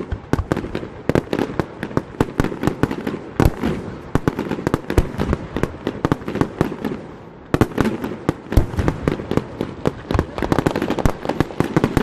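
Fireworks display going off in rapid succession, many bangs and crackling reports a second. The bangs dip briefly about seven seconds in, then come thick again.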